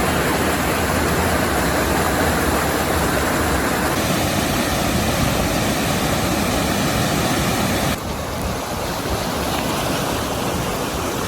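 Heavy rain falling, a steady dense hiss that drops a little in level about eight seconds in.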